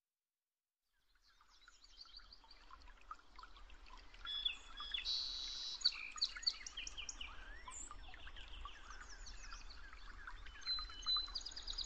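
Several birds chirping and calling in quick, overlapping short phrases over a faint low rumble. The sound fades in after about a second and a half of silence.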